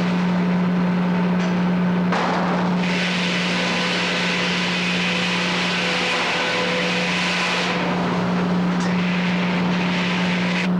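Frick 00 circular sawmill running, with a steady low hum under a rushing noise. The rushing thins out briefly about two seconds in and again around eight seconds, then comes back.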